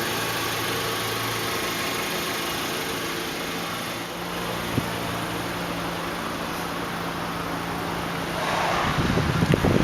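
The 2010 Hyundai Elantra Touring's 2.0-litre inline-four idling with a steady hum, with one sharp click about halfway through. Near the end, louder uneven rumbling like wind on the microphone comes in over it.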